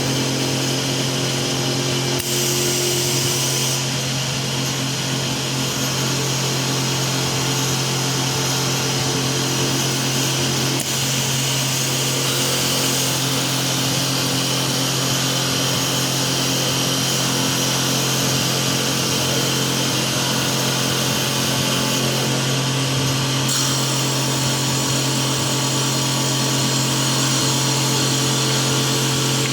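CNC automatic-feed wood lathe running: a steady motor hum under a bright hiss that grows brighter or duller a few times.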